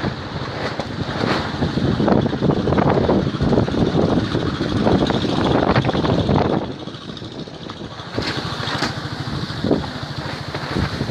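Strong gusting wind buffeting the microphone in a loud, rumbling rush. The gusts ease about six and a half seconds in, then pick up again near the end.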